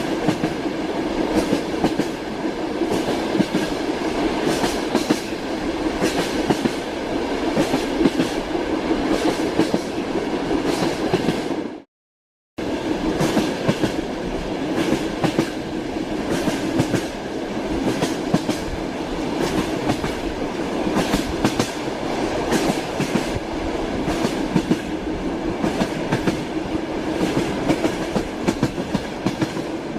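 Train wheels clattering over rail joints: a steady rolling rumble with frequent sharp clicks. It cuts out completely for under a second near the middle, then resumes unchanged.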